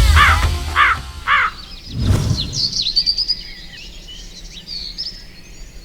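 A crow caws about four times in quick succession, then comes a single thud about two seconds in, followed by small songbirds chirping and twittering.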